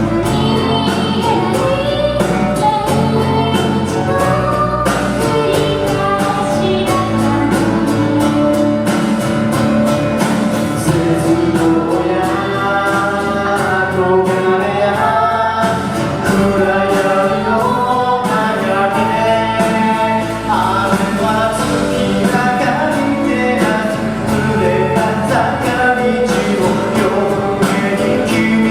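Live pop-rock band song: singing over the band, with a steady cymbal beat.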